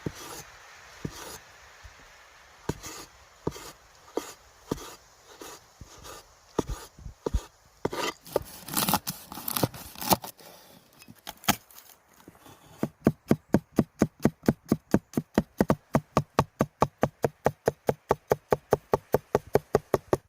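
Knife chopping on a wooden cutting board: separate, uneven cuts at first, then about a second past the halfway point a fast, steady run of chops at roughly four a second.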